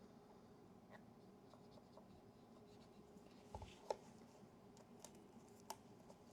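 Faint scratching and a few small sharp clicks of a camera being handled and cleaned, over a low steady hum.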